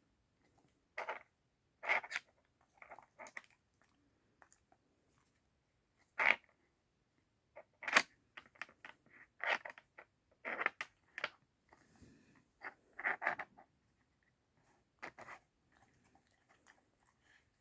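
A dachshund nosing and pawing at a plastic Nina Ottosson treat puzzle: irregular sharp clacks and clatters of the puzzle pieces, with crunching as he gets at the treats.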